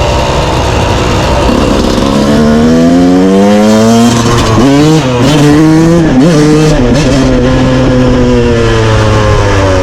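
Yamaha YZ125 two-stroke dirt bike engine revving hard. Its pitch climbs over a couple of seconds, jumps up and down in quick blips around the middle, holds steady, then drops near the end.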